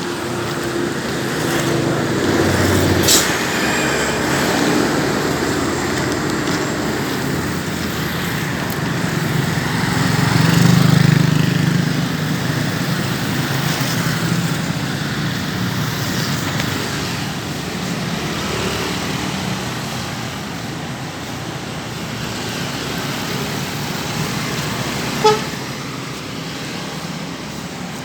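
Road traffic going by: a steady wash of passing vehicles, one louder pass about ten to twelve seconds in. There is a sharp click about three seconds in and a brief sharp sound near the end.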